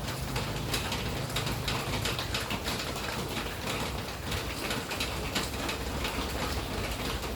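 Steady rain, with many separate drops striking a surface close by.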